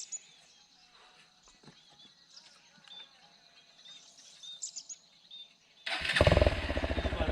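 Hero Xpulse 200 motorcycle's single-cylinder engine starting about six seconds in, then running loudly with a rapid, even firing beat. Before that, only faint bird chirps.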